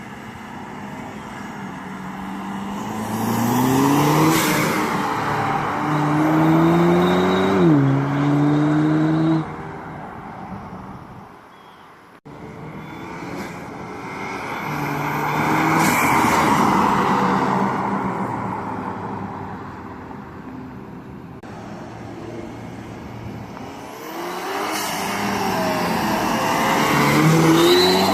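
2016 Camaro's 2.0-litre turbocharged four-cylinder accelerating hard on its stock exhaust, fitted with two add-on exhaust whistles. The engine note climbs and drops back at each automatic upshift, with swells of hiss. The sound cuts off sharply about twelve seconds in, then builds again through two more pulls.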